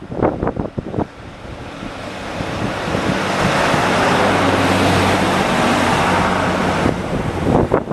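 A large vehicle passing close by: a rushing noise that builds for a few seconds over a steady low hum, then drops away about seven seconds in. Wind buffets the microphone.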